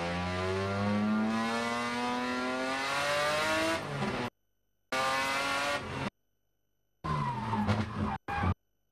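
Race car engine heard from inside the cabin, accelerating with its pitch rising steadily for about four seconds. The sound then cuts out abruptly and comes back in short chopped fragments of engine noise separated by dead silence, one of them falling in pitch.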